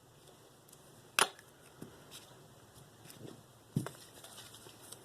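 A few clicks and knocks from sharpening gear being handled on a work surface: one sharp, loud click about a second in, a couple of light taps, and a duller knock near four seconds.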